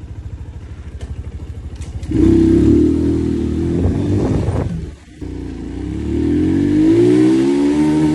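Motorcycle engine ticking over with a rapid even beat, then accelerating hard about two seconds in, its pitch climbing. The engine note cuts off briefly about five seconds in, then climbs again.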